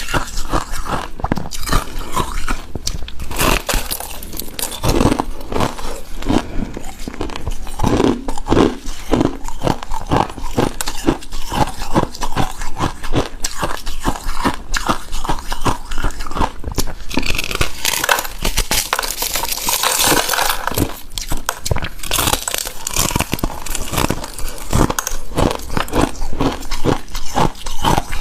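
Shaved ice being bitten and chewed: a dense run of crunches, several a second, with a louder, hissier stretch of crunching about two-thirds of the way through.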